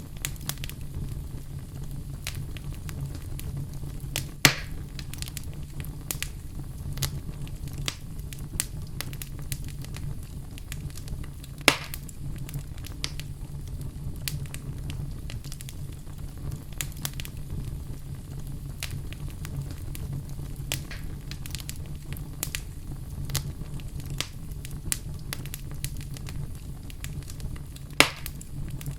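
Wood fire burning in a fireplace, crackling with frequent small snaps over a steady low rumble. Three louder pops stand out: about four seconds in, near the middle, and near the end.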